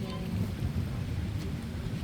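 Steady low rumble aboard a lake cruise ship, the ship's engine mixed with wind buffeting the microphone, with faint voices in the background.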